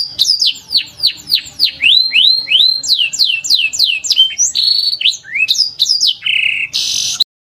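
Domestic canary singing: quick runs of whistled notes sweeping downward, about three or four a second, with a run of rising notes in the middle, ending in a buzzy trill that cuts off suddenly near the end.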